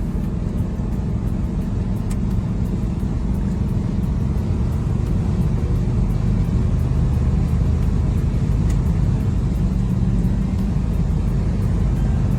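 Car engine running with a steady low rumble, growing slightly louder about five seconds in.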